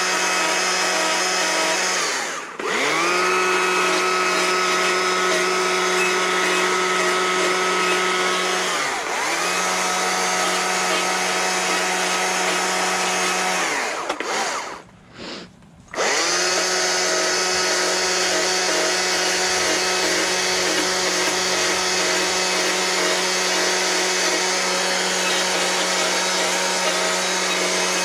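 Carving chainsaw running at high speed while cutting fur texture into wood. The throttle is let off and squeezed again about three times, so the pitch sags and climbs back, and the saw nearly stops for about a second midway.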